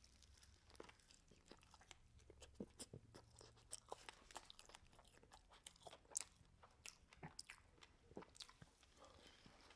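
Close-miked chewing of a crispy fried chicken sandwich: faint crunches and wet mouth clicks, several a second and irregular.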